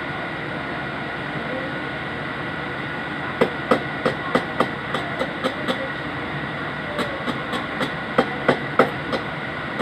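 Two runs of sharp taps or knocks, about three to four a second, the first starting about three seconds in and the second about seven seconds in. Under them is a steady hum with a faint high whine.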